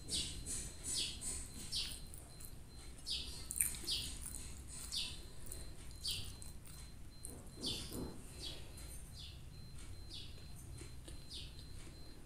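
A small bird chirping over and over: short, high chirps that fall in pitch, about one or two a second.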